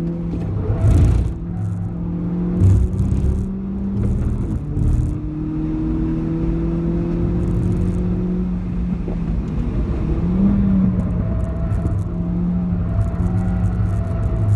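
Renault Clio 4 RS's 1.6-litre turbocharged four-cylinder heard from inside the cabin at hard throttle on track, its note rising slowly as the car accelerates, over a steady tyre and road rumble. A few knocks and bumps come in the first five seconds, and about ten seconds in the engine note rises and falls briefly as the car slows for a corner.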